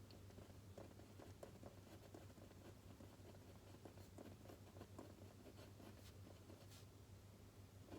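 Faint scratching of writing on paper, many quick short strokes in a steady run, over a low steady hum.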